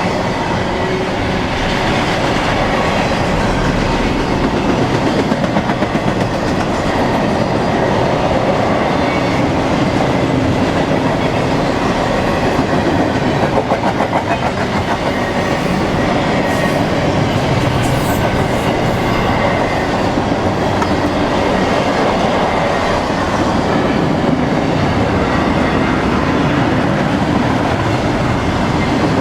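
Freight cars of a BNSF intermodal train rolling past, a steady loud rolling noise with wheels clicking over the rail joints.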